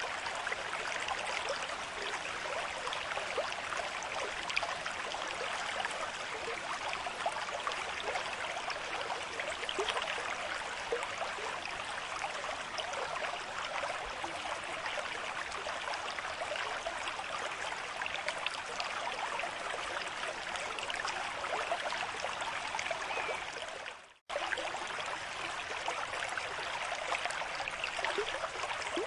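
River stream with a moderate flow, a steady rushing and trickling of water. A little past three-quarters of the way through it fades out briefly and cuts straight back in.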